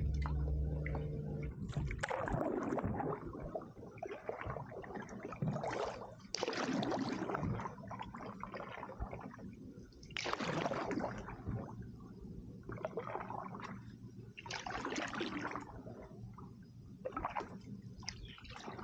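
Canoe paddle strokes in river water: a swishing splash every few seconds, with water gurgling around the hull. A low steady hum stops about a second and a half in.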